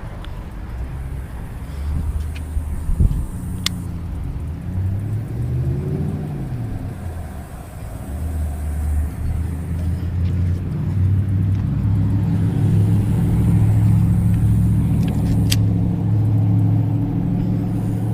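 Road traffic: motor vehicle engines passing close by, one rising and then falling in pitch about six seconds in, with a louder, steadier engine hum through the second half. Two sharp clicks stand out over it.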